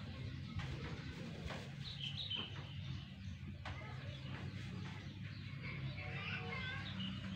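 Small birds chirping in short bursts of song, with faint rustling of cloth as a kapok mattress cover is handled.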